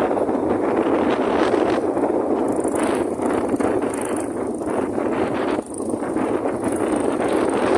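Strong wind blowing across the microphone, a dense rushing noise that rises and falls in gusts and drops off briefly about five and a half seconds in.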